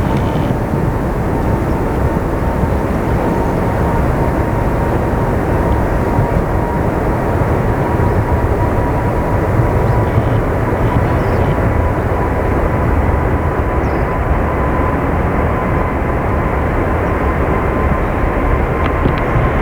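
Boeing 747-8's four GEnx turbofan engines running loud and steady, a deep jet roar with a thin whine that creeps slightly higher in pitch.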